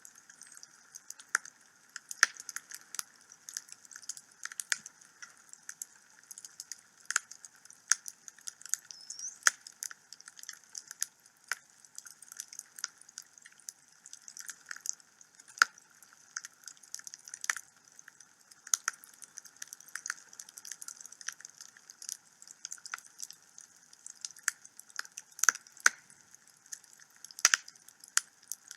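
Wood fire burning in a home fireplace, crackling with many irregular sharp pops and snaps over a faint hiss.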